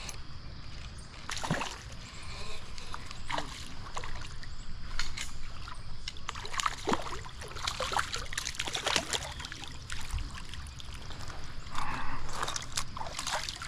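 Stream water splashing and sloshing, with irregular sharp splashes over a steady flowing haze.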